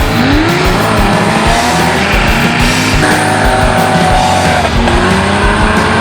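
An off-road 4x4's engine revving up and down, over background music with a steady beat.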